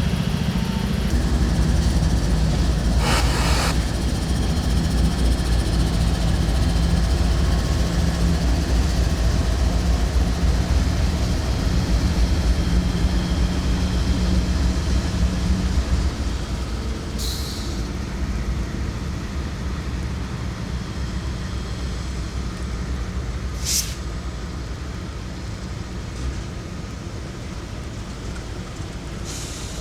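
A train passing, its diesel locomotive engine running steadily and then fading from about halfway through. Short sharp hisses or squeals come about 3 seconds in, again after 17 seconds and once more near 24 seconds.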